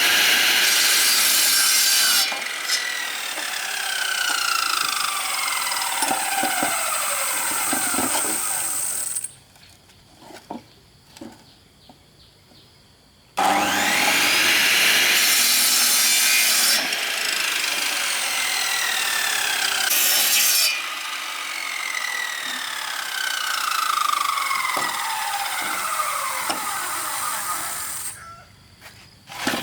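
A power saw cutting bamboo in two long passes, with pitch lines that sink slowly again and again as the blade bites. In a pause of about four seconds between the cuts, and again near the end, there are a few light knocks.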